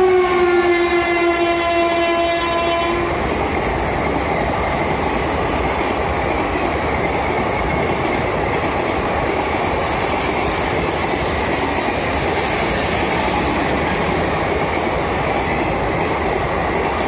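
Indian Railways WAP4 electric locomotive passing at speed with its horn sounding, the horn dropping slightly in pitch as it goes by and stopping about three seconds in. Then the steady rumble of its passenger coaches running past.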